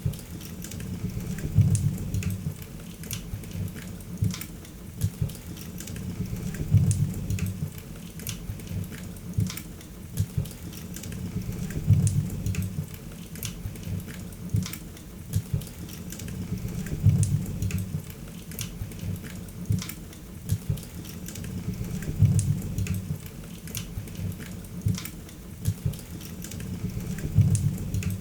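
Wood fire crackling in a fireplace: frequent sharp pops and snaps over a low rumble of the flames that swells about every five seconds.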